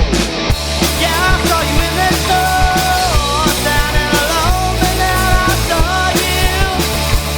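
Rock band playing its song live, with a steady drum beat under a full band sound and a held, bending melody line over it from about a second in.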